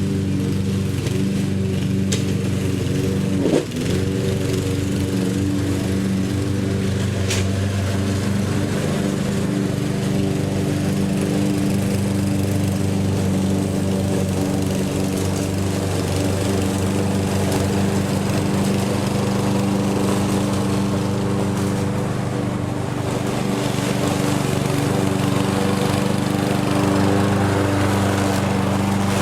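Lawn mower engine running steadily at an even speed, with one brief knock about three and a half seconds in.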